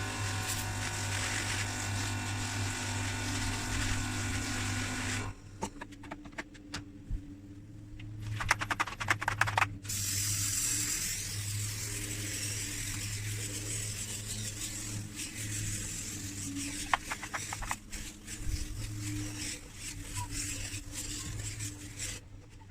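Car-interior cleaning tools at work: a small power tool running in spells, with clicks and short scrubbing noises between, over a low steady hum.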